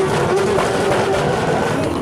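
Turbocharged drift car engine held high at a steady pitch, with a rapid crackle of exhaust pops from its anti-lag system.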